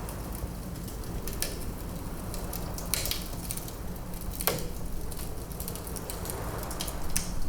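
Wood fire crackling in a fireplace, with a handful of sharper pops from the burning logs, the loudest about three and four and a half seconds in, over a steady low rush.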